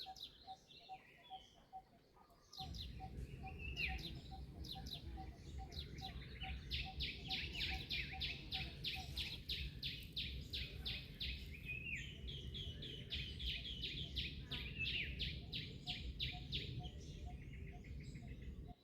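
Birds calling in rapid, dense trills of high chirps, busiest in the middle stretch, over a faint even ticking about three times a second. A steady low rumble starts abruptly about two and a half seconds in and runs on under the birdsong.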